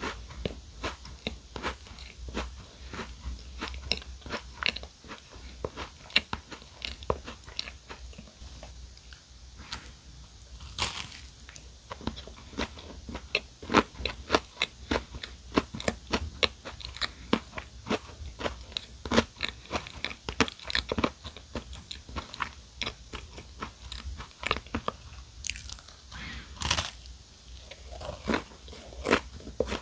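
Close-miked eating of a chocolate-coated mini chocolate cupcake on a chocolate sandwich cookie: a steady stream of small crisp crunches and chewing, with a couple of louder sharp cracks about eleven seconds in and again near the end.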